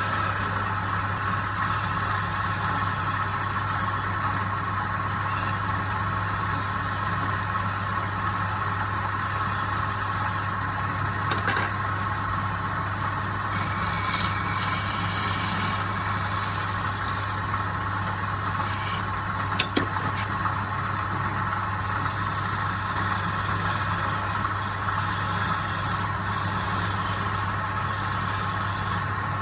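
A woodworking machine's motor running steadily, with a couple of short knocks about eleven and twenty seconds in.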